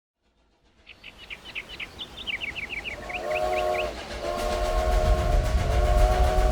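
Steam train starting up from silence: chugging that grows steadily louder, then the steam whistle blowing three times in a chord of several tones, each blast longer than the one before.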